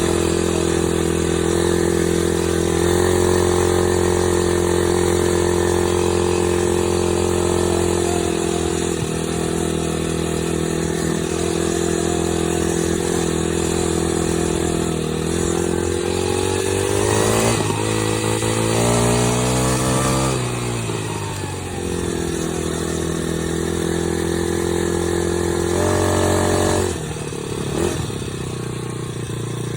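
Dirt bike engine running under way at a fairly steady speed. About two-thirds of the way in its pitch climbs for a few seconds and then drops sharply, and near the end the level falls off as the throttle eases.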